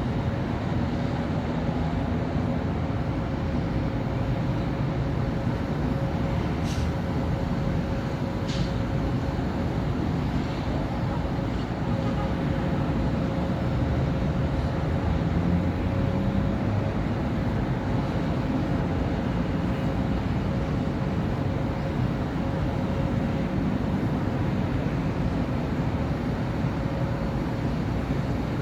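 City street traffic: a steady wash of cars and buses running past, with a constant low hum under it. Two brief high squeaks stand out about seven and nine seconds in.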